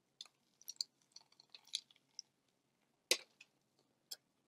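A man biting into and chewing a fried chimichanga close to the microphone: scattered soft crunches and mouth clicks, then a louder wet smack about three seconds in.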